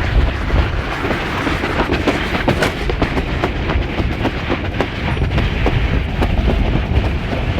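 Dry-slide sled running fast downhill along its track, rattling and clattering with many quick irregular clicks over a low rumble.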